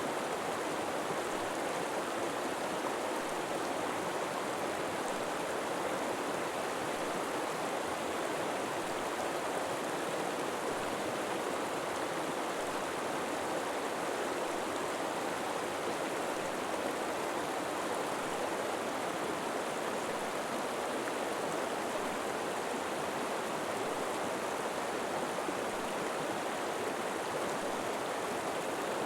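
River water flowing steadily, an even rushing with no separate splashes or other sounds.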